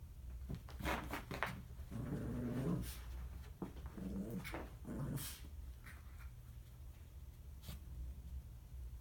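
Dog making short, low vocal sounds: a longer one about two seconds in and shorter ones around four and five seconds. Scattered scratchy clicks and rustles come from the dog pawing at a blanket.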